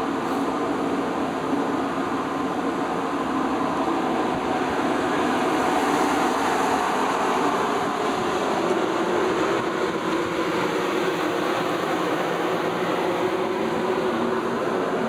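Steady, unbroken running noise of a ship under way, a continuous mechanical rumble and rush with no distinct events.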